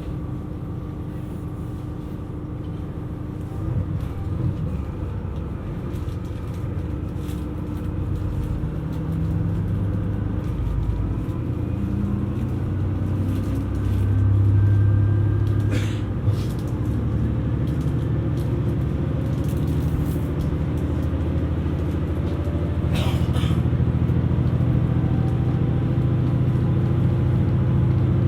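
KiHa 127 series diesel railcar pulling away, heard from on board: the diesel engine runs up under load with its note rising as the train gathers speed, drops suddenly about halfway through, then climbs again. A couple of sharp clicks sound along the way.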